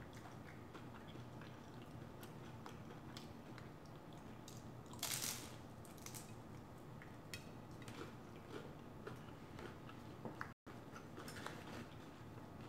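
Close-up eating sounds: biting into and chewing an egg roll, with small wet clicks of chewing and one louder crunch about five seconds in. The sound cuts out for an instant near the end.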